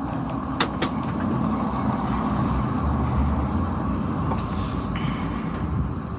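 Truck engine idling steadily, with two sharp clicks under a second in and a short hiss about four and a half seconds in.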